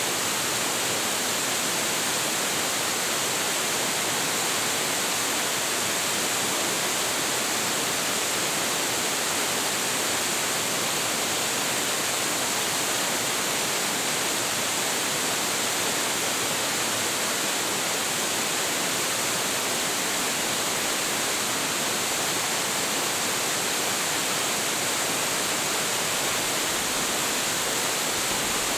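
A large waterfall pouring with a heavy flow of water: a steady, unbroken rush of falling water.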